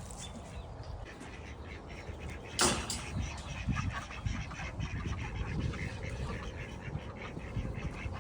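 Domestic ducks quacking, in many short repeated calls. A single sharp knock comes about a third of the way in.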